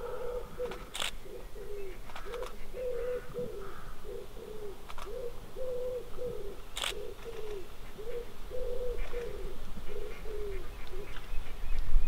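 A bird cooing: a continuous run of short, low notes, some falling slightly at the end. Two sharp clicks cut in, about a second in and again about seven seconds in.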